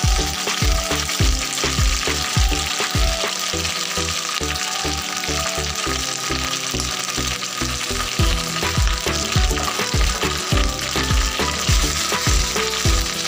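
Curry leaves sizzling as they dry-roast in a little hot oil in a non-stick kadhai, stirred now and then with a spatula. Background music with a steady beat plays throughout.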